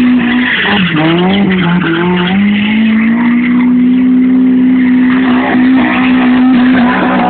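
Toyota AE86 Corolla coupe's twin-cam four-cylinder engine held at high revs while the car spins donuts, with tyres squealing and spinning. The revs sag and climb back about a second in, then hold steady.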